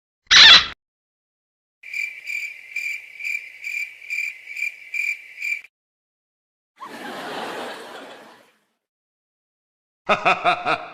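A string of separate stock sound effects with gaps of silence between them. First a short, sharp, loud hit just after the start. Then crickets chirping, about two and a half chirps a second for some four seconds, followed by a short noisy rush of about a second and a half and, near the end, a quick run of about five pulsed notes.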